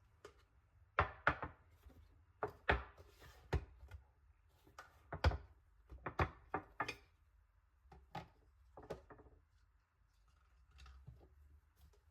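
Kitchen items being handled: a run of irregular sharp knocks and clinks, some with a short ring, as things are picked up and set down on a counter.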